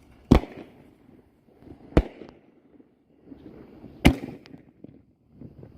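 Cutting Edge Fireworks' Pure Power consumer firework going off: three loud, sharp bangs about two seconds apart, each trailing off with a brief crackle.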